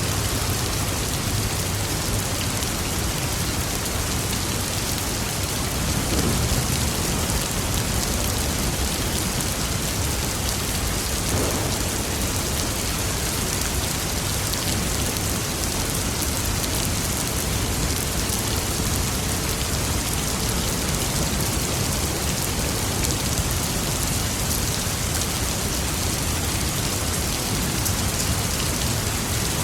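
Steady rain falling on a surface, an even wash of drops, with a low rumble of thunder swelling briefly about six seconds in.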